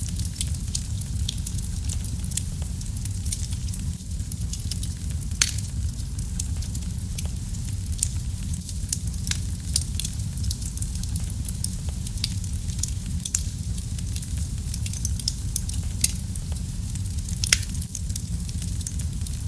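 Wood fire burning in a fireplace: a steady low rumble of flames with constant small crackles and sharp pops, a few of them louder.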